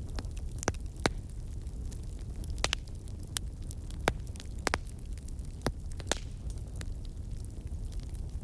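Burning fire crackling: a steady low rumble with sharp snaps and pops at irregular intervals, several of them louder than the rest.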